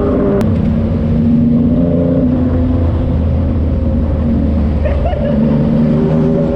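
Yamaha MT-09's inline three-cylinder engine running loud through a Racefit Slash aftermarket exhaust, its note shifting a little in pitch over a low rumble. A single sharp click about half a second in.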